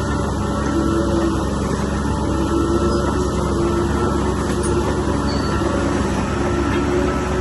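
Heavy earthmoving machinery's diesel engine running steadily: a continuous low rumble with a steady drone.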